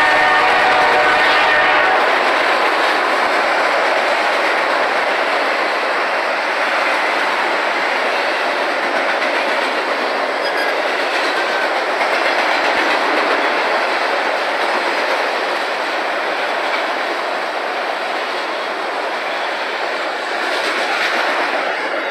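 Freight train of autorack cars rolling past at speed, a steady loud rush of wheels on rail that eases slightly toward the end. In the first two seconds a held pitched tone sounds over it.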